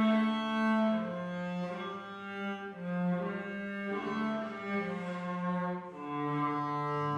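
Cello playing a slow hymn melody in long bowed notes, each held for about a second before moving to the next.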